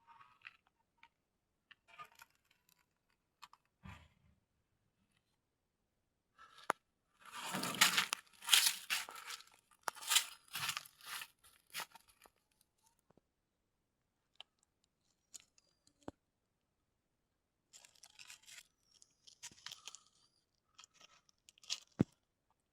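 Scattered rustling and crunching, with a dense run of scraping from about seven to twelve seconds in and a few sharp clicks.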